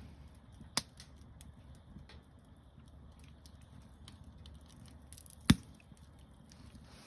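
Campfire crackling, with faint scattered ticks and two sharp pops from the burning wood, one about a second in and a louder one about five and a half seconds in.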